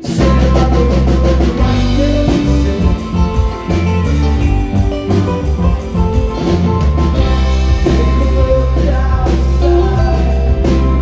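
Live rock band playing with a full drum kit, guitars and bass, the whole band coming in sharply at the very start after a brief drop.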